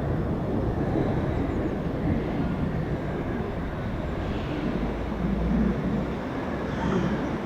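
NS Sprinter Nieuwe Generatie (CAF Civity) electric train running by with a steady rumble.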